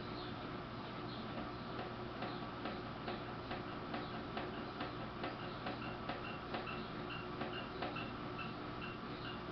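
Samsung front-loading washing machine running with a steady hum and a regular clicking, about two to three clicks a second, beginning about a second and a half in.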